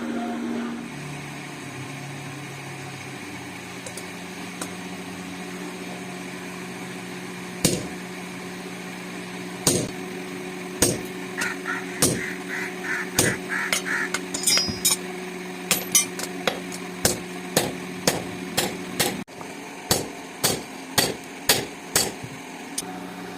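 Blacksmith's hammer striking steel: a few spaced blows, then a steady run of sharp strikes at about two a second that stops shortly before the end. A steady low hum runs underneath.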